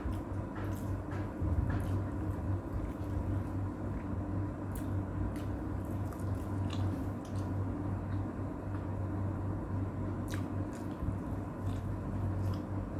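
A person chewing and eating, with small wet smacks and clicks of the mouth scattered throughout, over a steady low hum.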